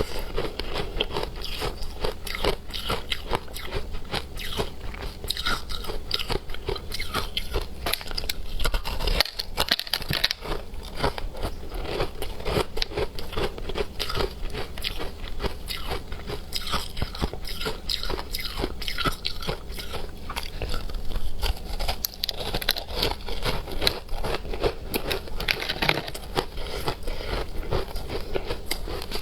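Hard frozen matcha ice being bitten and crunched between the teeth: a rapid, continuous run of sharp cracking crunches, with a brief pause about nine seconds in.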